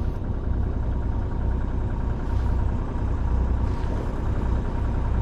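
Sailing boat's engine running steadily at about 1200 RPM to set the anchor, with a constant low hum.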